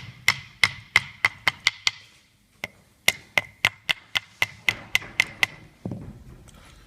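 Sharp metallic clicks from hand tools working the condenser fan's mounting hardware, about three a second with a ringing metal tone, in two runs with a brief pause about two seconds in.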